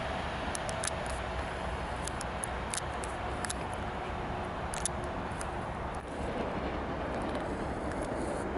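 Passenger train running away along the track: a steady rumble with faint held tones and scattered sharp clicks. About six seconds in it cuts abruptly to a different steady noise.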